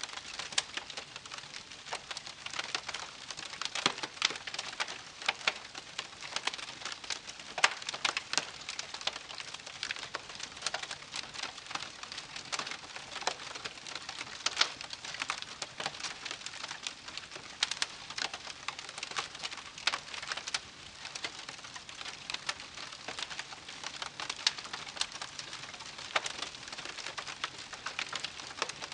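Wood fire crackling, with frequent sharp pops and snaps over a steady hiss.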